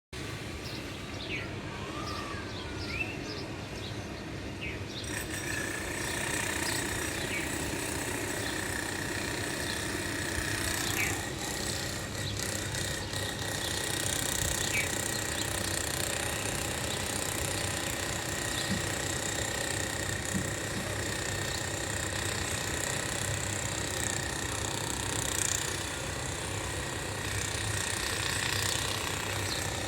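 Brief, scattered bird chirps over steady background noise of machinery and traffic. A steady high whine joins about five seconds in.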